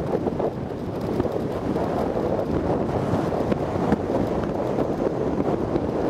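Wind buffeting the microphone over the steady low rumble of a Jeep driving.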